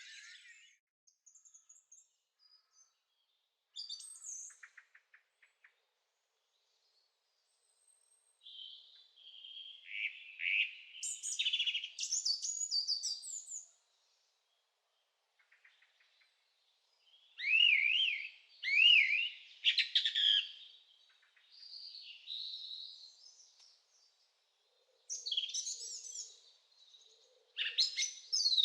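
Songbird singing in separate phrases of high chirps and quick up-and-down notes, with silent pauses of a second or two between them; the loudest phrases come in the second half.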